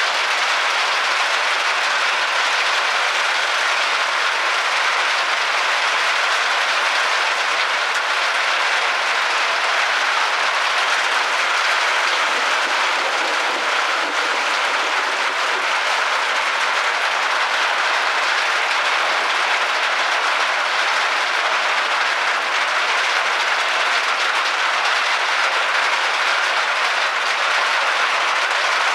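Rain pouring down steadily, an even hiss that holds without let-up.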